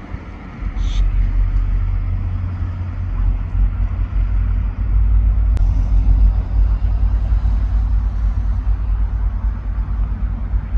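Diesel locomotive running with a steady low rumble, wind buffeting the microphone. A short hiss comes about a second in.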